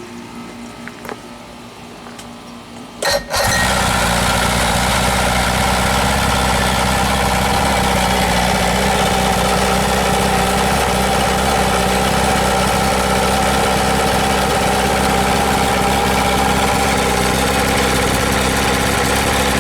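130 hp Chrysler two-stroke outboard motor, converted to an automotive coil and points ignition, cranks and catches about three seconds in, then runs steadily until it stops at the very end. It starts right up on the new ignition.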